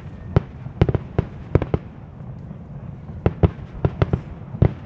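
Aerial fireworks shells bursting: a dozen or so sharp bangs and cracks come in irregular clusters, with a lull of about a second in the middle, over a steady low rumble.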